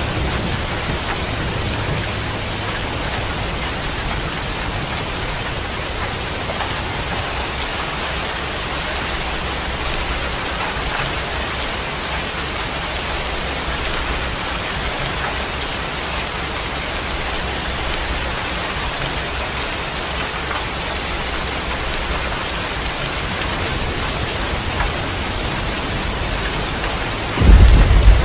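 Steady rain, an even hiss of drops, with a low rumble of thunder dying away over the first few seconds. Near the end a loud thunder rumble breaks in suddenly.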